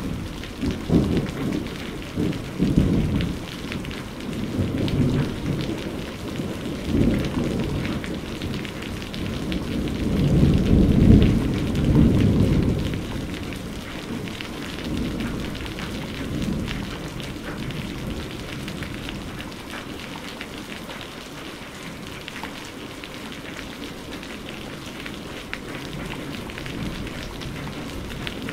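Steady rain hissing through a thunderstorm, with rolling thunder that rumbles low in several waves. The heaviest roll comes about ten to thirteen seconds in, and the storm then settles into steady rain with the thunder fading.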